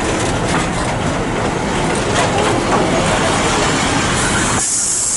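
Heritage train running, a dense steady rumble with low engine-like tones. About four seconds in, a loud high hiss starts and the low rumble suddenly drops away.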